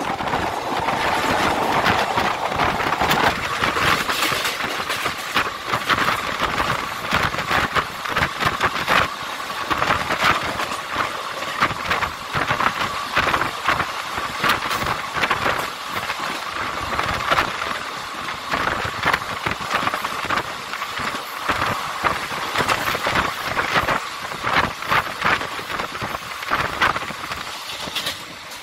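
Indian Railways express train at speed, heard from an open coach door: wheels clattering irregularly over rail joints and points, over a constant rush of running noise and a steady high squeal.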